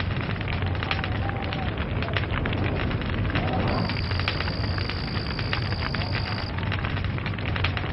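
Log fire crackling, with many sharp pops and snaps over a steady low rumble of burning. A thin, high whistle sounds for about three seconds in the middle.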